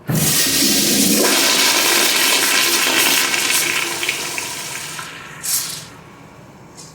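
Mansfield Quantum toilet flushing: a loud rush of water starts suddenly, holds steady for about four seconds, then tapers off, with a short final surge about five and a half seconds in.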